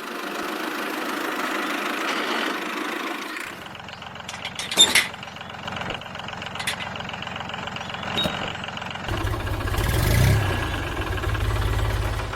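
Engine sound with a steady hum, a few sharp clicks and knocks partway through, then a low, evenly pulsing engine chug over the last few seconds.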